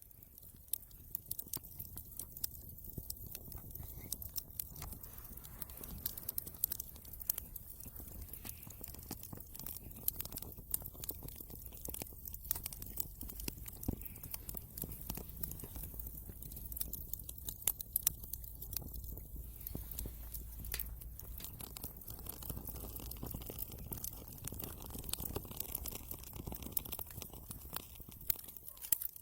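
Wood fire in a fireplace crackling, with a dense run of sharp pops and snaps over a low, steady rumble.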